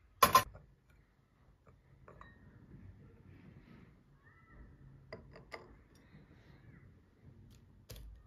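Dishware knocked together: a sharp double clatter near the start, then a few light clinks and taps, with one more sharp click near the end.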